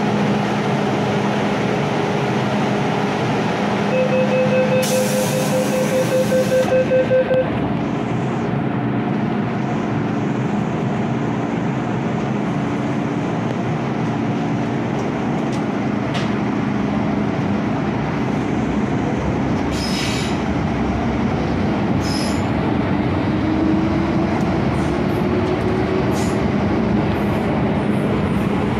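Inside an MTR M-Train car on the Kwun Tong line: a rapid run of electronic beeps, the door-closing warning, sounds for about three seconds near the start over a steady hum. Then the train runs with wheel and rail noise and a motor whine that rises in pitch near the end as it picks up speed.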